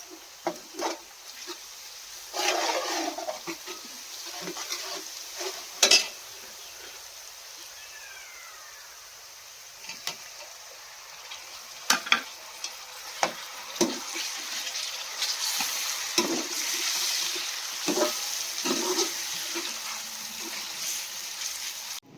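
A metal spoon stirring and scraping in a pot, with irregular clinks against the pot, over the sizzle of food frying; the sizzle grows louder in the second half.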